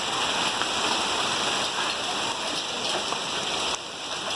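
Heavy hail and rain pelting down, a dense, steady clatter of impacts. It dips briefly for about half a second near the end.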